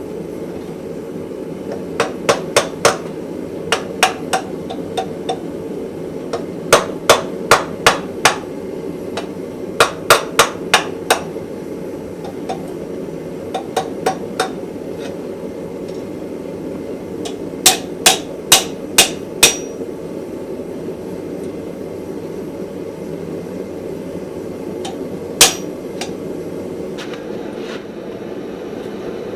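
Blacksmith's hand hammer striking steel on an anvil, in quick runs of several blows with pauses between, ending with a single blow. A steady low rushing noise runs underneath.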